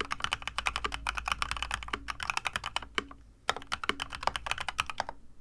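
Fast typing on a mechanical keyboard whose switches have been fully lubed with Krytox 205g0 and its stabilizers with Permatex: rapid keystrokes with a deeper knock every second or so. The typing pauses briefly about three seconds in, then stops shortly before the end.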